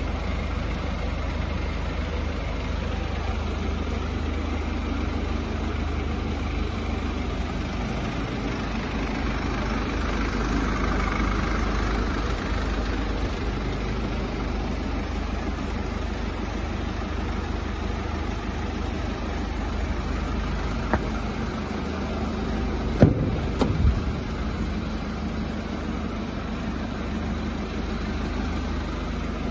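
Mercedes-Benz Sprinter 314 CDI four-cylinder diesel engine idling steadily, with a few short knocks about two-thirds of the way through.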